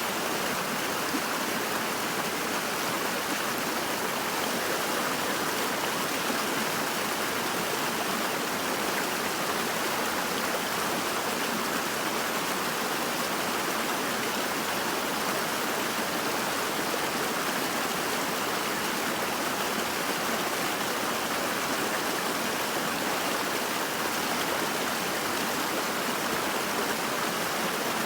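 Steady rushing of flowing water, an even hiss with no breaks or separate splashes.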